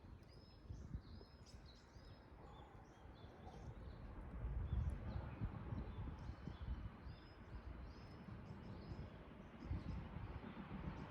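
Small birds chirping over and over, short high calls, over a low rumbling background noise that swells in the middle.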